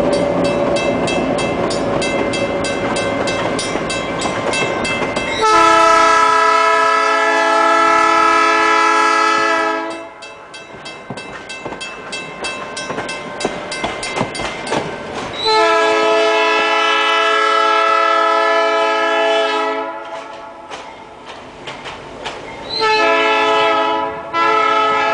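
EMD SW8 diesel switcher locomotive passing, its engine running under wheel clicks over the rail joints, then sounding its multi-chime air horn in two long blasts, a short one and a final blast: the long-long-short-long grade crossing warning.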